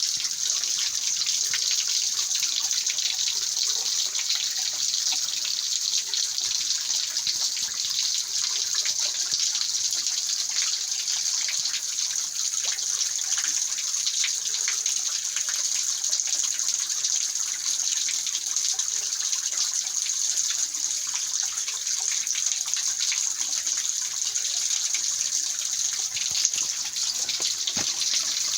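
Mountain valley stream running steadily over rocks: an even, unbroken rush of water.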